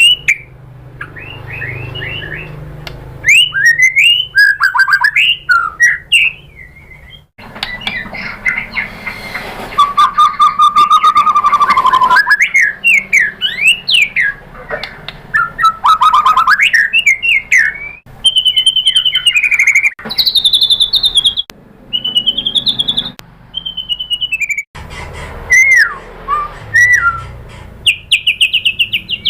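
White-rumped shama (murai batu) singing a long, varied song of rapid rising and falling whistles, trills and sharp notes, loud and almost unbroken, used as a pancingan to provoke a caged shama into singing.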